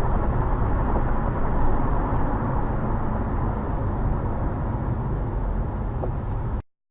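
Steady road and engine rumble inside a moving car, picked up by a dash camera. It cuts off abruptly near the end.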